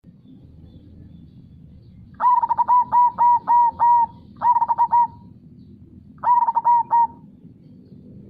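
Zebra dove (perkutut) cooing: three phrases of quick repeated coo notes, the first about six notes long and the next two shorter. Under it runs a low, steady rush of river water.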